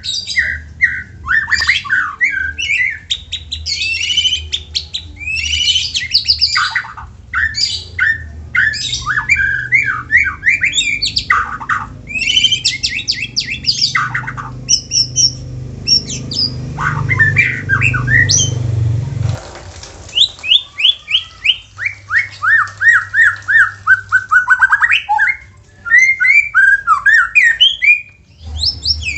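White-rumped shama (murai batu) singing loudly and without pause: fast runs of varied whistled notes and harsh chattering phrases. A low hum lies underneath and cuts off about two-thirds of the way through.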